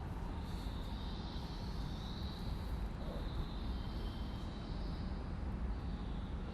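Steady railway station platform ambience: a continuous low rumble with a faint high hiss, with no train or announcement.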